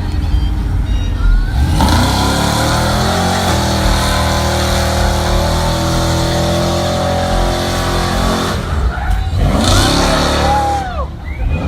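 Car engine revving hard: the revs climb about two seconds in, are held high and steady for several seconds, then drop away near the end.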